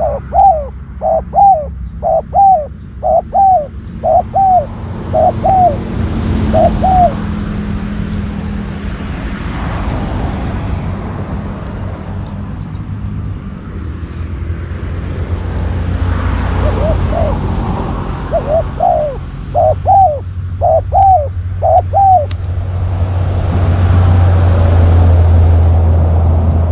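Spotted dove cooing: a quick run of short, arched coo notes, then a pause, then a second run of the same notes about two-thirds of the way through. A steady low rumble runs underneath and grows louder near the end.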